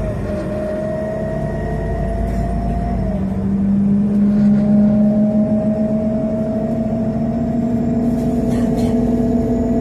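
Scania CN270UB city bus's CNG engine and drivetrain heard from inside the bus, its whine rising as it accelerates. The pitch drops sharply about three seconds in, as at a gear change, then climbs again.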